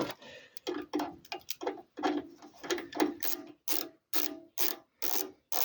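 Hand ratchet wrench clicking through a series of short strokes, about two to three a second, the clicks growing louder and sharper over the second half.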